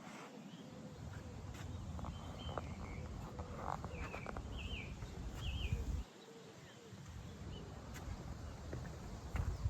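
Small birds chirping a few times around the middle, over a low rumble of wind on the microphone and scattered footsteps on the path.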